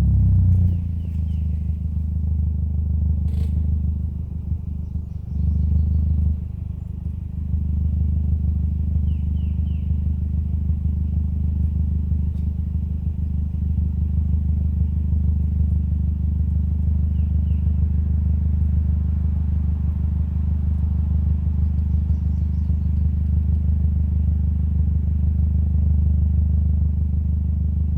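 Audi TT 225 Quattro's turbocharged 1.8-litre four-cylinder engine. Its note drops as it slows at the start, then it runs steadily at low revs. There is a sharp click about three seconds in, and the engine sound dips briefly twice between five and seven seconds in.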